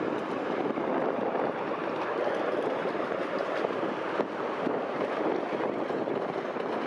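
Miniature passenger train running along its track, a steady rolling rattle and rumble from the wheels and open riding cars.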